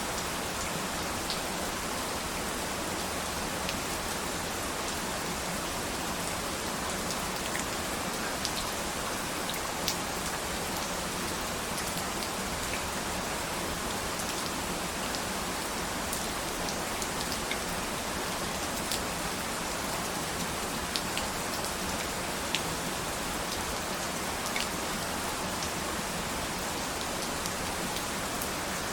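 Steady rain falling, a constant hiss with scattered distinct drop ticks.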